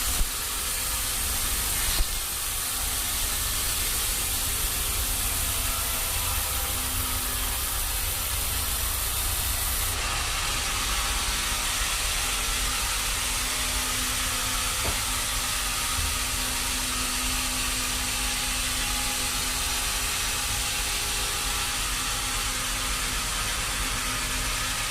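Sawmill machinery running steadily: a constant broad hiss over a low rumble, with a faint steady hum.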